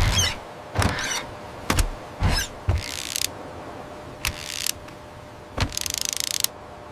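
Toy-animation sound effects: a string of sharp knocks and clicks, with two short hissing bursts, the second one rattling.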